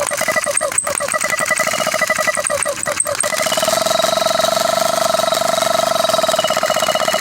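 Husky air compressor motor stuttering in rapid pulses, with two sharp clicks, then settling into a steady hum about three seconds in. It struggles to start, and the owner cannot tell why.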